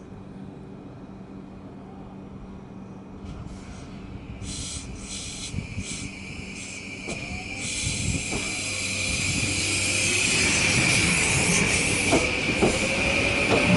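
JR Kyushu 821 series electric multiple unit pulling away and accelerating: the traction motor whine rises steadily in pitch while the wheel and rail noise grows louder, with a few short hisses as the train starts moving.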